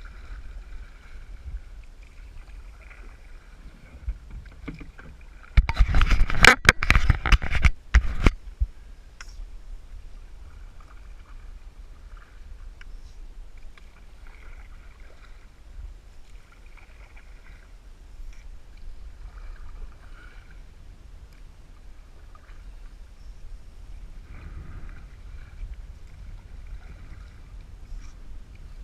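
Canoe moving on a river, with a low steady rumble of water and wind. About six seconds in comes a loud clatter of knocks against the boat lasting a couple of seconds.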